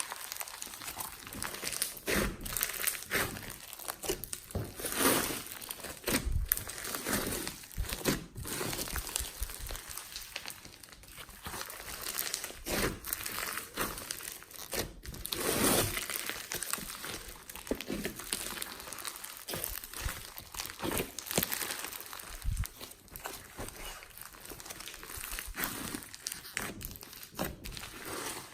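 Slime being kneaded and mixed by hand, giving irregular crackling pops and clicks that come unevenly throughout.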